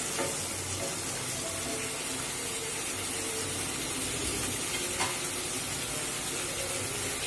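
Boiled eggs and potatoes frying with onions in hot oil in a pan, a steady sizzle, while a spatula stirs the mixture, with a light knock about five seconds in.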